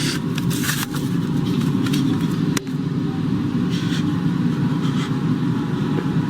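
A loud, steady low rumbling noise with scattered clicks and crackles over it, and one sharper click about two and a half seconds in.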